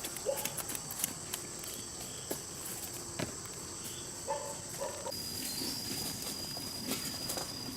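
Insects, crickets or cicadas, trilling steadily in a high thin tone. About five seconds in, one trill stops and a slightly lower one takes over. There are a few faint clicks and short animal calls.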